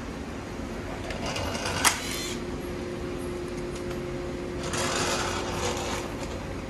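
Parts being handled and worked loose during a motorcycle teardown, with one sharp click about two seconds in and a faint steady hum behind.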